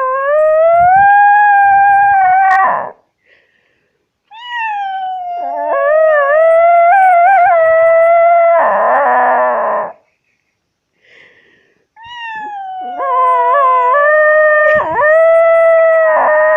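A dog howling: three long howls with short silent gaps between them, each wavering in pitch.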